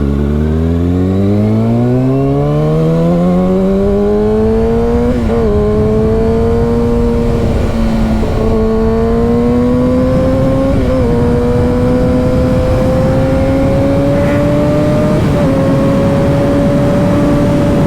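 Motorcycle engine heard from the rider's seat, accelerating hard with its pitch climbing steeply for about five seconds, then running on at speed and creeping higher, with a few brief dips along the way. A steady rush of wind runs underneath.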